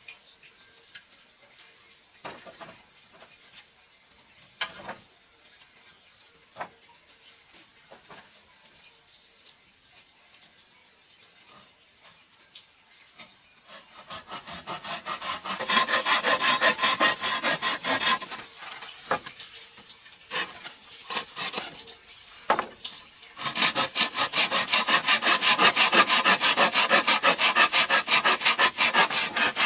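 A few scattered knocks over a faint steady high whine. About halfway through, a hand tool starts working wood in rapid back-and-forth strokes; it pauses briefly and then resumes louder near the end.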